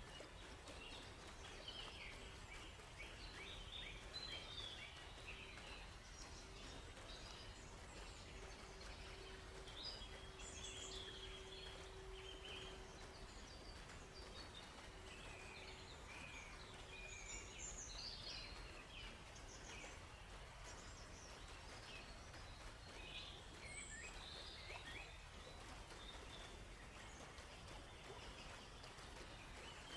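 Faint forest ambience: several small birds chirping and calling in short, scattered phrases over a steady low hiss.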